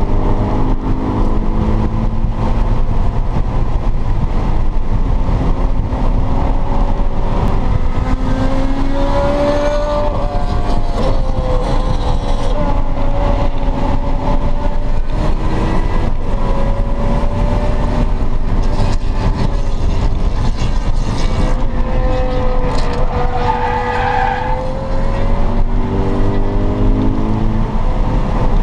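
Subaru BRZ's flat-four engine heard from inside the cabin at racing speed, its pitch climbing and dropping repeatedly with acceleration, gear changes and braking. Tyres squeal briefly late on.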